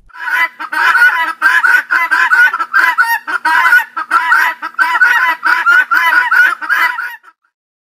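A flock of helmeted guineafowl calling in a rapid, continuous run, about four calls a second, stopping abruptly about seven seconds in.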